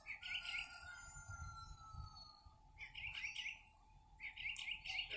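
A songbird singing three short phrases of quick, rapid chirps, with a thin falling whistle under the first phrase.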